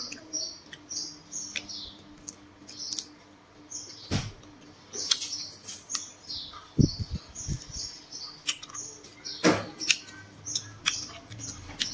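A mouth chewing and biting crispy grilled water snake close to the microphone: sharp crunches and wet mouth clicks, with louder bites about four, seven and nine and a half seconds in. Short, high chirp-like sounds repeat throughout.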